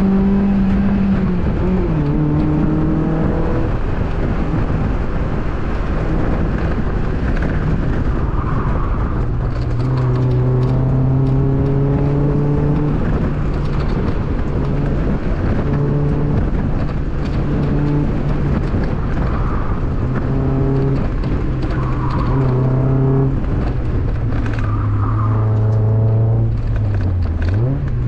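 Mazda Miata's 1.8-litre four-cylinder engine working hard through an autocross course, its pitch repeatedly climbing under acceleration and dropping with lifts and gear changes, over road and tyre noise.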